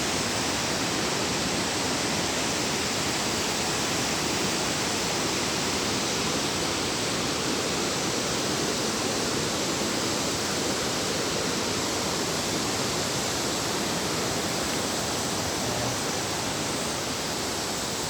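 Waterfall on a mountain stream, its falling water rushing in a loud, steady roar.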